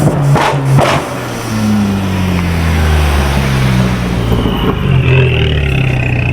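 A car's very loud exhaust being revved: two sharp cracks about half a second and a second in, then the engine note falls away as the revs drop and settles into a steady drone.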